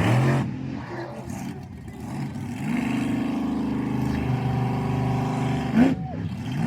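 Monster truck engine revving, then held at steady high revs for about three seconds, with a brief loud burst and a rising rev near the end.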